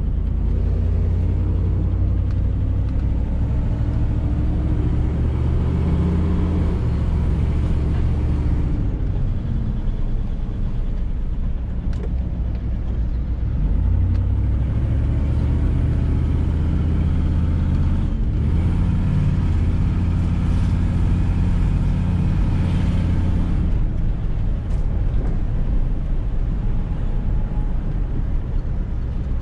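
A truck's diesel engine running loudly, its pitch climbing and then dropping back several times.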